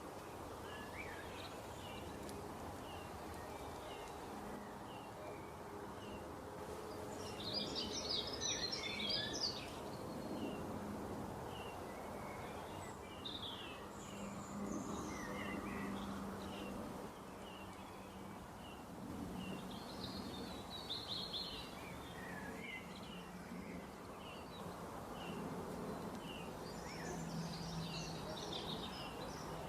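Small birds chirping repeatedly, with denser bursts of twittering about a quarter of the way in, about two-thirds in and near the end, over steady background noise with a low hum.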